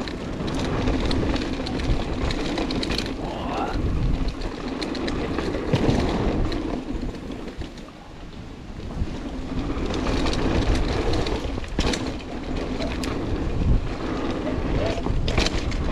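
Wind buffeting the camera microphone while a mountain bike rides down a dirt trail, with tyre roar and scattered sharp clatters as the bike goes over bumps. The noise eases briefly about halfway through, then builds again.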